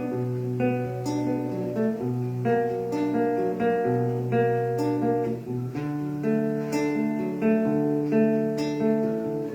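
Acoustic guitar playing an instrumental interlude of a slow song, with regularly picked notes over held bass notes.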